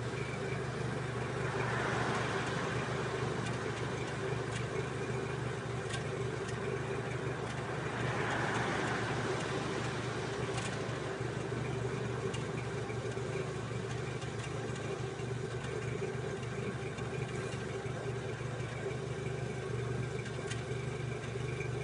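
Dacia Logan 1.6 16V four-cylinder petrol engine idling steadily, heard at the exhaust, with two short swells of rushing noise about two and eight seconds in.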